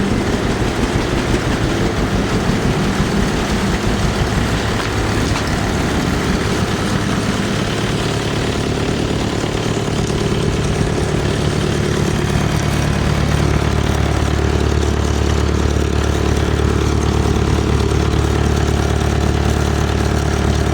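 Vintage farm tractor engine running at a steady idle. About halfway through, its low beat settles and grows steadier.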